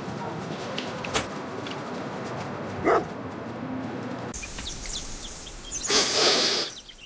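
Outdoor background noise with faint bird chirps, broken by a few short louder sounds: a click about a second in, a brief call near three seconds, and a longer, louder sound about six seconds in.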